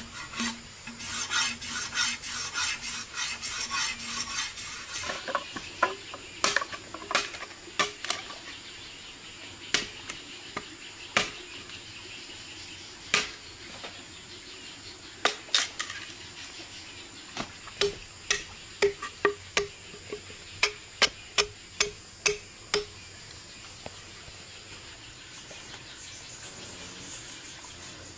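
Utensils clinking and scraping against cookware: a run of sharp clicks and knocks, densest in the first five seconds, then scattered, with a quick series near the end. A faint steady insect hum runs underneath.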